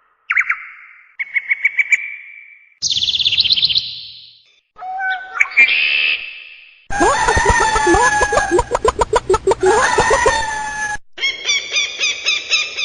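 A series of short bird-call clips spliced one after another, each starting and stopping abruptly: quick runs of high chirps and trills, with a longer, louder and harsher stretch of calls in the middle.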